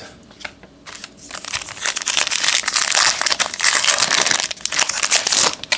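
Plastic wrapper of a baseball card pack crinkling as it is torn open and handled, a dense run of crackling starting about a second in and stopping just before the end.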